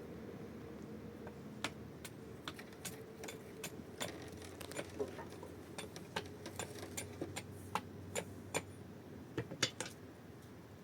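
A string of light, irregular clicks and taps, a few a second and coming more often in the second half, over a faint steady hum.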